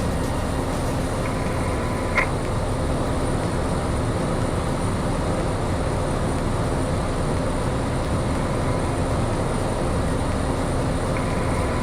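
Steady cockpit drone of a Piper single-engine light aircraft's piston engine and propeller, with a short tone ending in a click about two seconds in.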